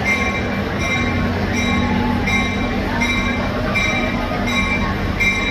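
EMD FL9 diesel locomotive running with a steady low engine hum, while its bell rings over and over, about every two-thirds of a second.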